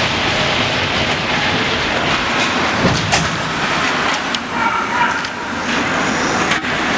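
Ice hockey game sound in a rink: a steady wash of skating and arena noise, broken by a few sharp clacks of stick and puck, one about three seconds in and another past four seconds.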